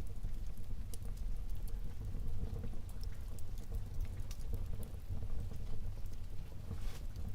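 Wood fire burning in a fireplace: a steady low rumble of flames with scattered sharp crackles and pops, and a slightly longer crackle near the end.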